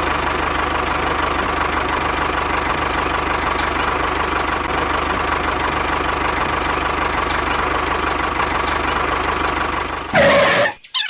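A small engine running steadily at idle with a fine, even chugging, cutting off abruptly near the end.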